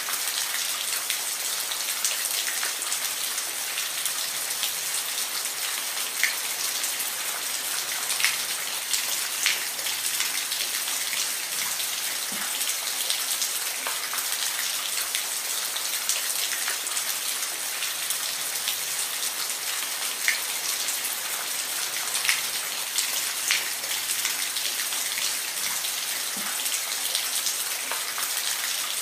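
Steady rain falling, an even hiss with distinct drops ticking and pattering on a surface close by, some louder than the rest.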